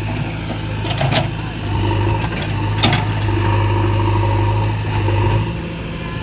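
Heavy vehicle's diesel engine running steadily, a little louder through the middle, with two sharp metallic clanks, one about a second in and one near three seconds.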